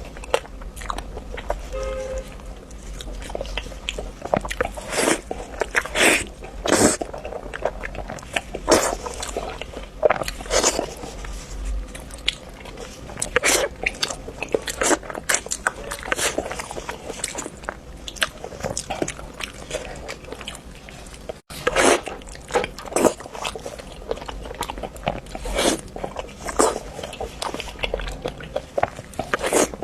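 Close-miked eating: crisp crunching bites and chewing, a loud sharp bite every second or two at an uneven pace, with a momentary break about three-quarters of the way through.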